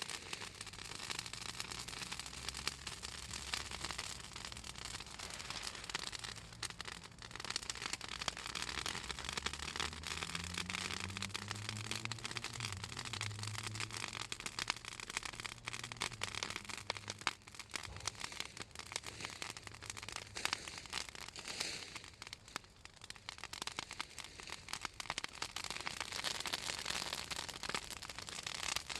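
Fallen southern magnolia branches burning in an open fire, crackling and popping continuously as the oily wood and leaves burn. A low hum swells and fades underneath around the middle.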